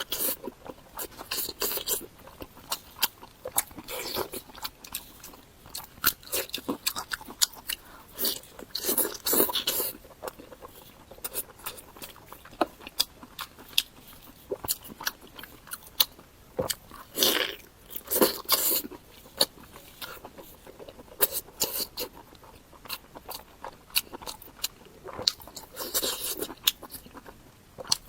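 Close-miked eating of pork belly strips: irregular crunching bites and chewing, with sharp crackly clicks and several louder spells of crunching.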